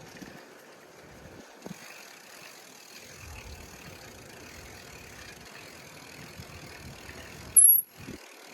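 Bicycle riding outdoors: steady wind and road noise with gusty rumbling on the microphone. A brief, sharp, high-pitched blip about seven and a half seconds in is the loudest sound.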